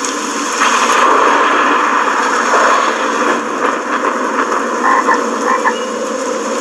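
A chorus of many frogs croaking at once in a dense, continuous din, with a few short higher calls about five seconds in.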